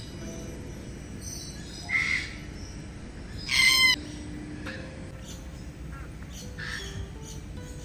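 Birds calling in an aviary: a short call about two seconds in, then a loud, harsh squawk lasting about half a second, followed by a few fainter calls.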